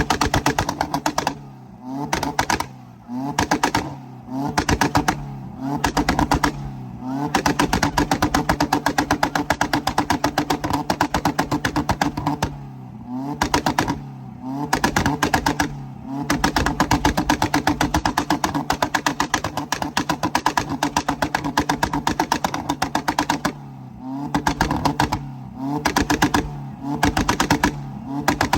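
A car engine revved hard in repeated bursts, held high with a rapid stuttering rattle, its pitch dropping and climbing back in short dips every second or two.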